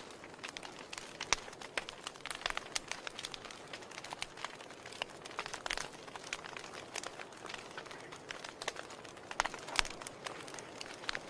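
Wood fire burning in a fireplace, crackling: irregular snaps and pops, some sharp and loud, over a soft steady hiss, with a louder pop about a second in and again near the end.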